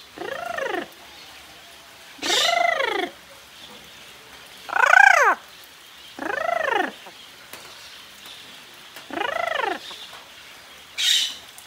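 Pet amazon parrot giving five drawn-out calls, each rising then falling in pitch, one to two seconds apart, then a short harsh squawk near the end.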